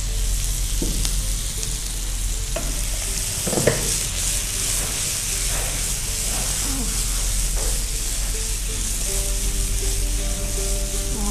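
Mutton and vegetable pieces frying in oil in a pan over a gas flame, giving a steady sizzle, while a spatula stirs and turns them in the pan.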